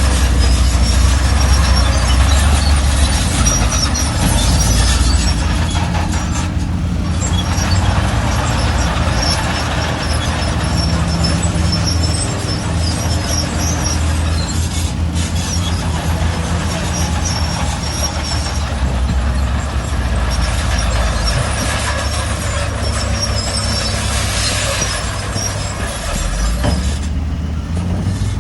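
Heavy diesel construction machinery working: a loud, steady low engine rumble with metallic squeaks and rattles over it.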